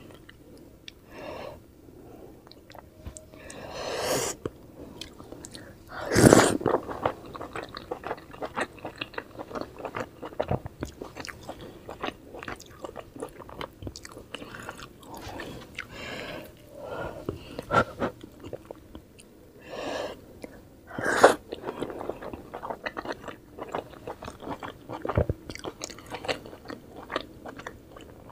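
Close-miked chewing of soft steamed vegetable momos (dumplings) dipped in chutney: steady wet, sticky mouth sounds and small clicks, with a few louder juicy bites, the loudest about six seconds in and another about 21 seconds in.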